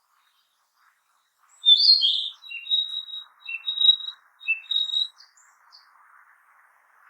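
Narcissus flycatcher singing one song phrase of clear, varied whistled notes, starting about a second and a half in and ending after about five seconds. A faint steady hiss runs underneath.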